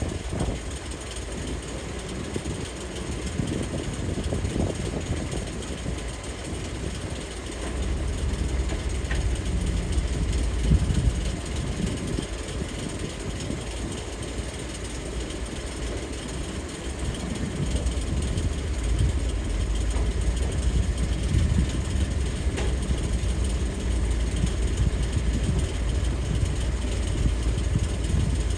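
Hydraulic excavator's diesel engine running while loading dirt, working harder in two long stretches: about a third of the way in, and again for most of the second half.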